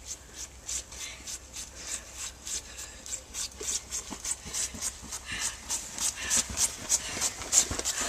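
Footsteps crunching through snow, about three steps a second, growing a little louder toward the end.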